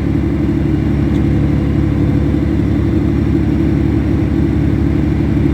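Boat's inboard engine running at a steady speed, a loud, even, low drone.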